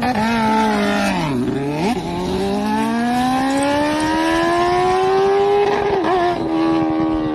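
An engine revving: its pitch dips and comes back up, then climbs steadily for several seconds before levelling off and easing down slightly.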